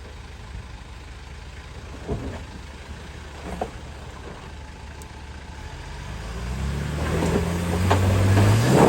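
Four-wheel-drive truck's engine running low and steady, with a couple of short knocks. Over the last few seconds it revs up and gets louder as the truck is driven up a wet rock step.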